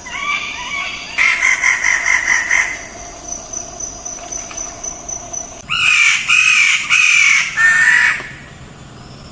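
Birds calling: a run of quick repeated notes about a second in, then a louder series of four longer calls, each rising and falling in pitch, in the second half.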